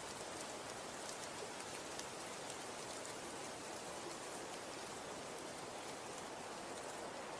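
Falling snow: a steady soft hiss with many faint, fine ticks of snow landing.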